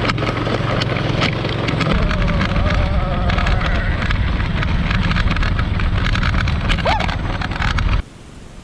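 Homemade mini bike's 220cc small engine running at speed with a high buzzing note and a clatter of sharp knocks, cutting off suddenly about eight seconds in.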